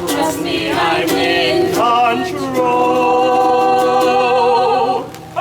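Unaccompanied singing closing a sea shanty: the voice slides through a short phrase, then holds one long final note that stops about five seconds in.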